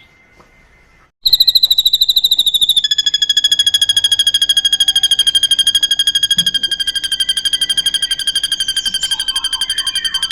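A drongo giving a long, very fast, evenly pulsed trill at a steady high pitch. It starts about a second in, and a lower second tone joins a moment later.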